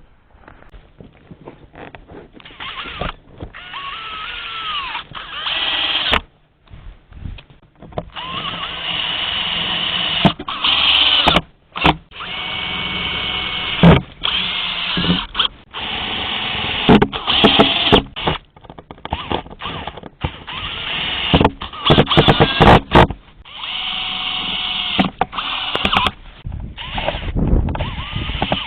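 Handheld electric drill running in repeated start-stop runs, its motor speeding up and slowing down with each pull of the trigger.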